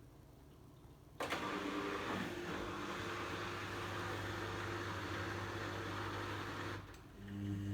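Logik L712WM23 washing machine starting to run: a steady mains-type hum over a rushing noise comes on abruptly about a second in, drops away briefly near the end and then returns louder.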